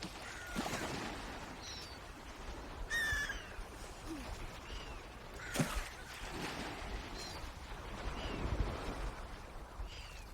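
Swans calling: short, high, downward-sliding calls repeated every second or two, over a low background rush of wind or water. A sharp knock comes about five and a half seconds in.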